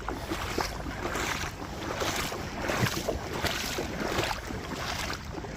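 A river rushing, with wind on the microphone making the noise swell and fade every half second or so.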